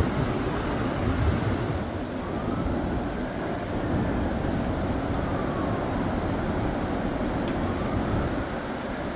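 Strong gusty wind blowing steadily, rumbling on the microphone, with a faint whistle that rises and falls a few times.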